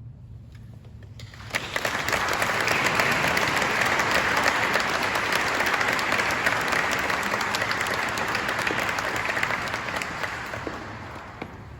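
Concert audience applauding. The applause starts about a second and a half in, holds steady, and dies away near the end.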